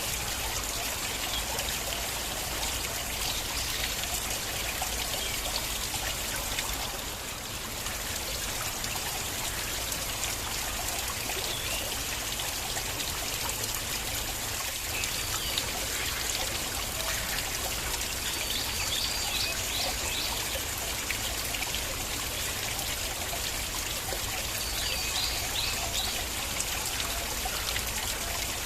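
Small water stream flowing and trickling steadily, with a brief dip in level about a quarter of the way in.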